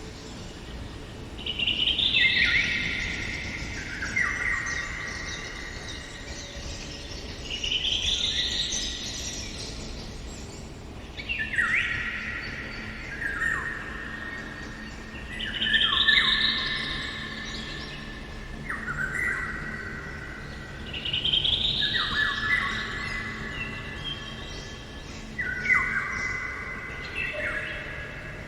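A songbird singing repeated phrases of clear notes that step down the scale, each phrase lasting a second or two and coming every few seconds.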